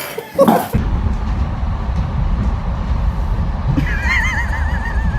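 A loud, steady low rumble, with a wavering, quavering high call over it about four seconds in.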